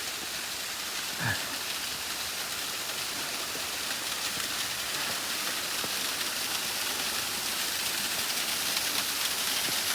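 Steady rushing of a mountain stream or cascade, growing slightly louder, with one short falling vocal sound about a second in.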